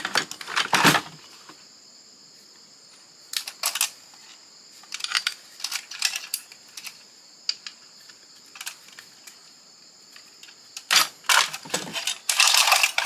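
Irregular clicks, clinks and knocks of hand tools and small metal and plastic parts as an old fax machine is taken apart by hand. A denser clatter of parts comes near the end, over a faint steady high hiss.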